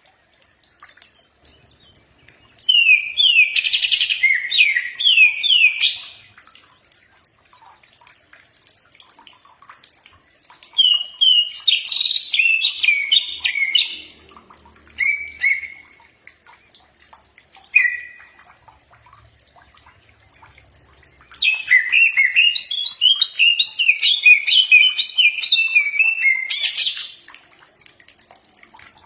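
Cucak ijo (green leafbird) singing. It gives three runs of rapid, sliding whistled notes, the last and longest running from about 21 to 27 seconds in, with two short single notes in the pause between the second and third runs. The song is of the kind played as a masteran to draw an answer from a kept bird.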